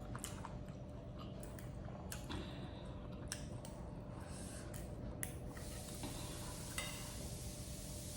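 A person chewing food, with scattered light clicks that fit a spoon on a plate.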